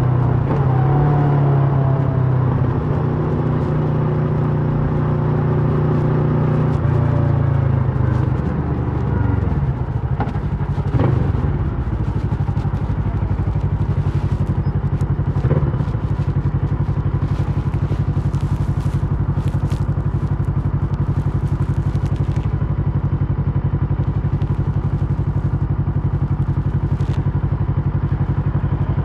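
Kawasaki Versys 650 parallel-twin engine through a MIVV slip-on exhaust, its revs falling as the bike slows. From about twelve seconds in it settles into a steady idle.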